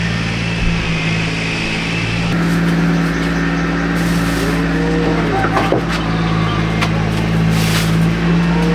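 An engine running steadily at an even pitch, with a few light clicks over it.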